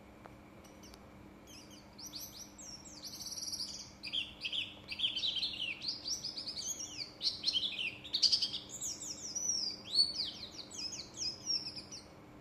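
A pleci (Buxtoni white-eye) singing a long, fast warbling song of high, quickly falling chirps, starting about two seconds in. It is practising its song.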